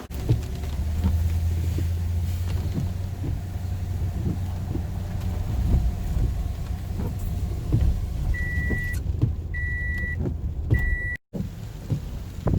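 Vehicle engine running with a steady low hum. Near the end come three short, high electronic beeps, about a second apart.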